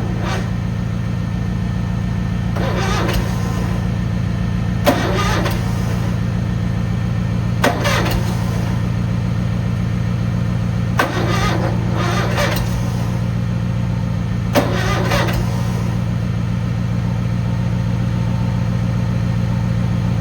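Cub Cadet 782 garden tractor's twin-cylinder engine being cranked steadily by its electric starter in deep cold without catching, with a few short sharp pops or clicks along the way. It fails to start because no fuel is reaching it.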